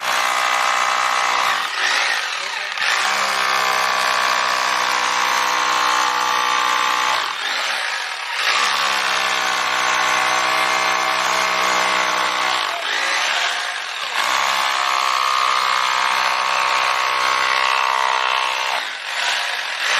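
Electric three-function rotary hammer drill (concrete drill) running steadily in stretches of about four seconds, stopping and restarting three times.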